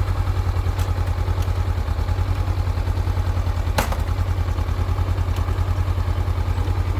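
Honda CB500X/NX500 parallel-twin engine idling with a steady, even pulse, and a sharp clunk about four seconds in as a gear is engaged. This is the normal engagement clunk of this bike, not a fault.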